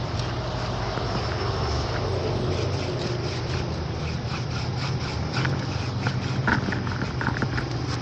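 A machine motor hums steadily. In the second half, short sharp sounds come over it.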